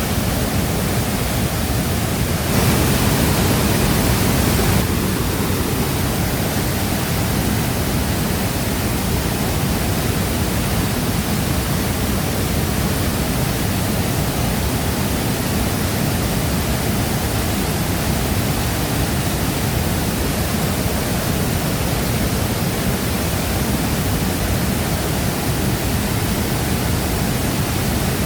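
Shifen Waterfall pouring: a steady, dense rush of falling water, swelling slightly louder for a couple of seconds near the start.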